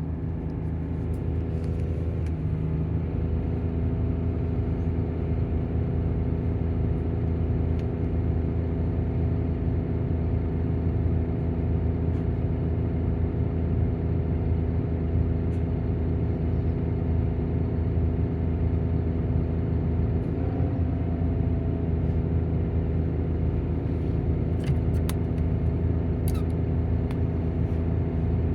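Volvo coach's diesel engine idling with its engine cooling fan running: a steady, even hum with a deep low end.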